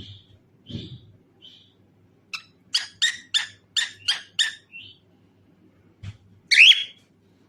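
Cockatiel calling: a few soft chirps, then a quick run of about seven sharp repeated notes, then one loud call near the end.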